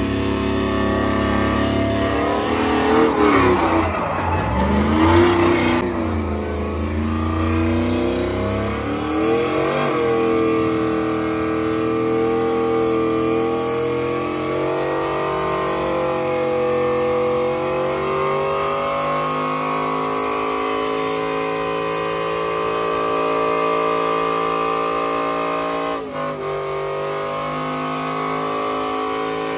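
A vehicle engine revving up and down a few times, then running at a fairly steady speed with slow rises and falls in pitch.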